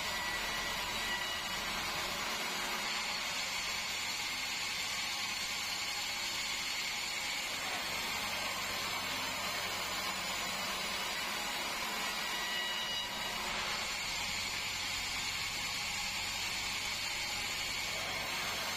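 Band sawmill running with a steady, even noise that holds at one level throughout.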